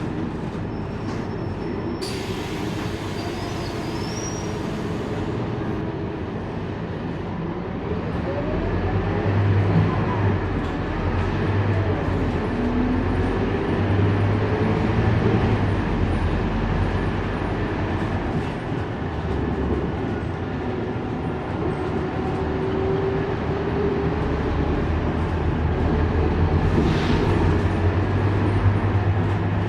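Scania K230UB single-deck bus's diesel engine and drivetrain running under way, a steady low rumble that grows louder and picks up a rising whine about eight seconds in as the bus gathers speed. A short burst of air hiss comes about two seconds in.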